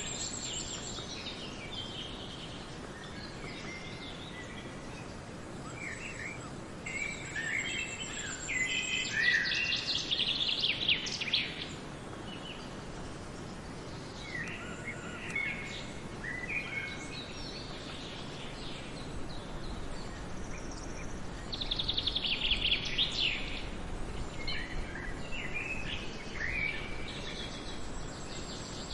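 Several songbirds singing and calling in a forest, short trilled phrases and chirps coming and going every few seconds over a steady background hiss.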